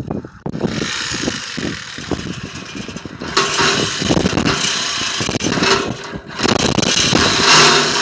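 Reciprocating saw cutting through the metal frame of a car dolly. The saw starts about half a second in and gets louder and harsher about three seconds in. It stops briefly shortly after six seconds, then carries on cutting.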